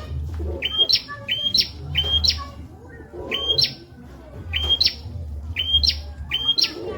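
A prenjak (prinia) singing its repeated song of short sharp chirps, given in quick twos and threes, each chirp sweeping up and snapping to a higher note. A low steady hum runs beneath.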